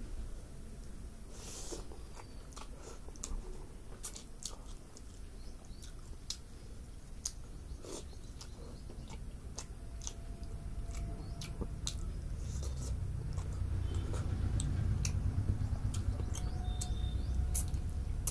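A person eating rice and curry by hand: close chewing with many short wet smacks and clicks. A low rumble grows louder over the second half.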